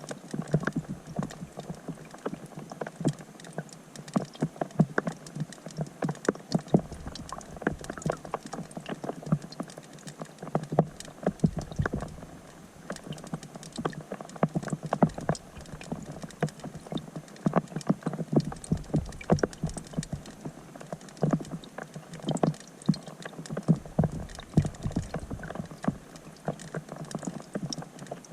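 Rain falling on a pond's surface, heard from underwater through a GoPro's waterproof housing: a dense, irregular patter of drop taps.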